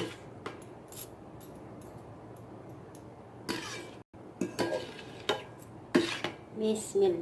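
Cutlery clinking and scraping against a bowl as spicy instant noodles are mixed: scattered short clicks and knocks, more of them in the second half, with a brief scrape about halfway through.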